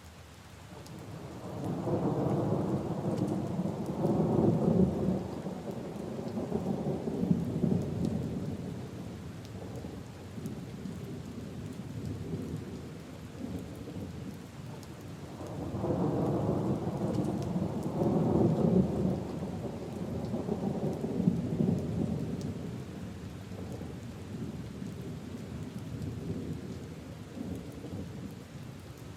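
Steady rain falling on leaves and puddles, with two long rolls of thunder: the first builds about a second and a half in, the second about halfway through, each lasting several seconds.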